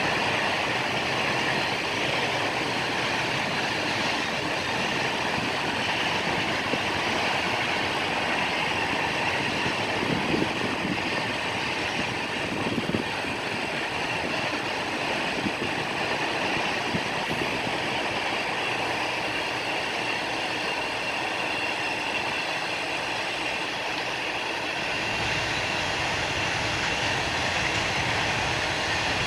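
Intermodal freight train with double-stacked container cars rolling steadily past, its steel wheels running on the rail. A few louder knocks come from the cars around ten to thirteen seconds in.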